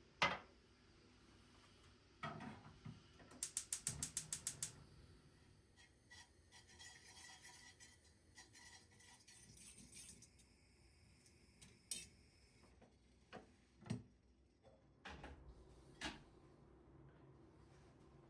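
Quiet kitchen handling sounds: scattered knocks and clinks of dishes and utensils. About three and a half seconds in comes a quick run of about a dozen rapid clicks, and a soft hiss follows for a few seconds.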